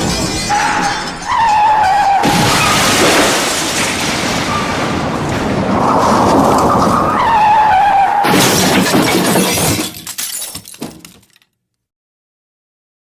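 Crashing, shattering sound effect of dense noise with a wavering tone over it. It fades out about ten seconds in, leaving silence near the end.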